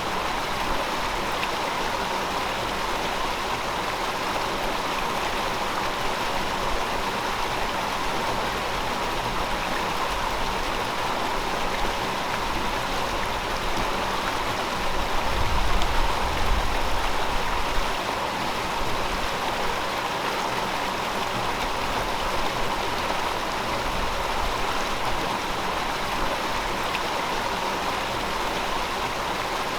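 River water flowing with a steady rush. A low rumble swells briefly about halfway through.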